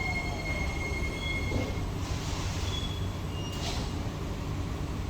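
Singapore MRT North-South Line train running between stations, heard from inside the carriage: a steady low rumble with high-pitched wheel squeal. The squeal holds steady, then fades out about two seconds in, with a few short squeaks after it.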